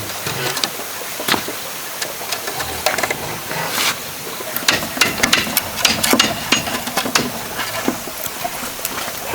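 Irregular sharp clicks and knocks of bamboo being handled and worked, over a steady hiss; the knocks come thicker about halfway through.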